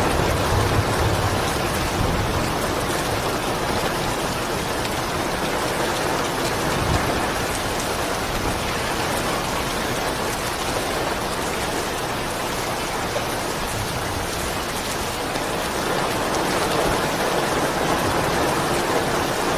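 Steady rainfall, a dense even hiss of drops hitting surfaces.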